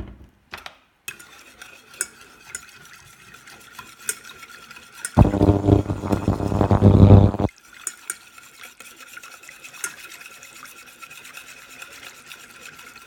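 Wire whisk stirring béchamel sauce in a metal saucepan, with scattered light clicks of the whisk against the pan.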